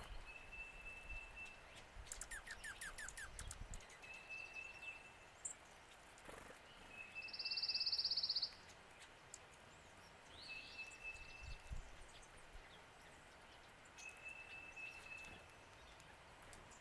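Songbirds calling: a short, steady whistled note repeated every three to four seconds, a quick run of notes about two seconds in, and a loud, fast trill lasting about a second, roughly halfway through.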